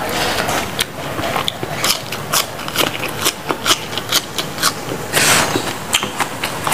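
Close-miked chewing and crunching of raw vegetables (lalapan) with sambal: a string of sharp, crisp crunches, with a louder, longer one about five seconds in.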